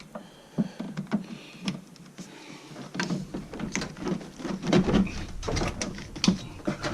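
Scattered clicks, knocks and rubbing of hands handling engine parts while fitting an air filter onto a turbocharger inlet, growing busier about halfway through, with a low rumble joining in.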